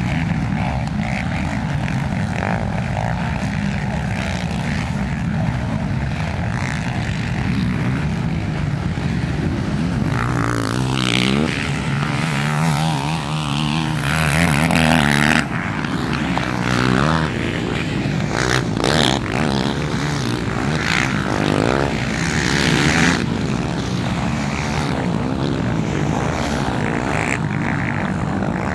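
Racing quad (ATV) engines revving on a motocross track, several machines at once, the revs rising and falling as they race. The engines are loudest about halfway through, with a close pass that cuts off suddenly.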